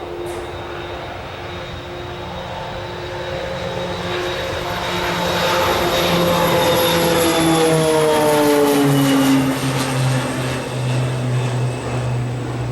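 Twin Pratt & Whitney PT6A turboprop engines of a Raytheon C90A King Air at takeoff power as the aircraft goes past, with propeller and turbine whine. The tones slide down in pitch as it passes, loudest about nine seconds in.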